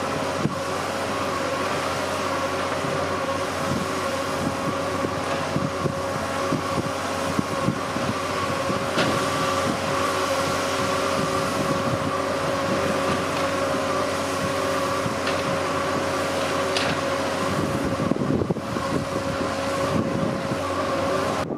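Steady mechanical hum made of several constant tones, unchanged in pitch, over the faint running noise and low clicks of a South Western Railway Class 455 electric multiple unit moving away along the tracks.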